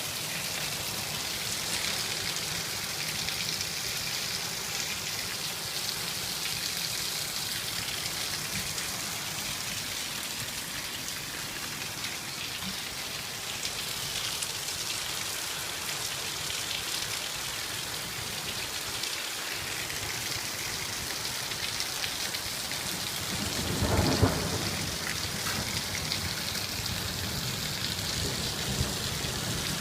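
Heavy rain pouring down in a steady hiss, with a brief low rumble about 24 seconds in.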